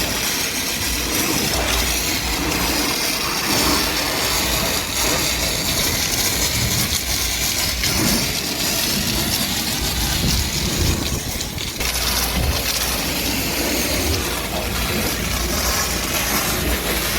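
Pressure washer spraying water onto a car: a steady hiss over the low hum of the washer's motor.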